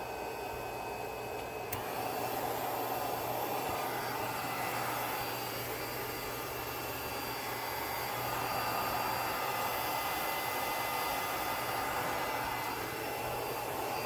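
400W portable clothes dryer's fan-heater switched on with a click about two seconds in, then blowing steadily with a faint motor whine.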